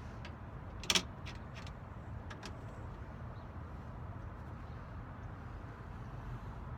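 Sargent mortise lock parts handled during cleaning: one sharp click about a second in, then a few lighter clicks, over a steady low rumble.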